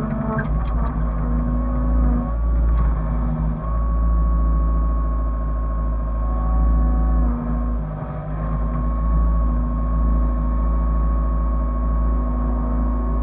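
Hyundai excavator's diesel engine running with a steady low drone, its tones shifting in pitch every few seconds as the machine works. There are a few light knocks in the first second.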